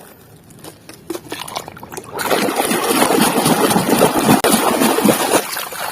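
Water running and splashing over a muddy toy as it is washed, starting about two seconds in after a few small clicks and knocks.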